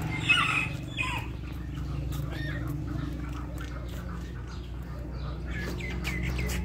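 Birds calling: a loud call a fraction of a second in, a shorter falling call about a second in, and a run of quick repeated chirps near the end, over a steady low background hum.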